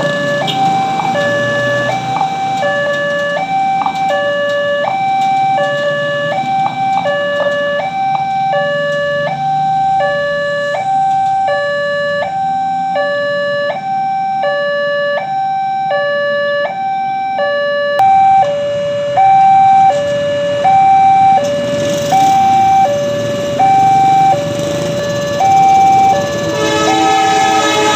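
Indonesian railroad level-crossing warning alarm sounding its steady electronic two-tone signal, a low and a high note alternating about once a second, to warn of an approaching train. Near the end a train horn starts to sound.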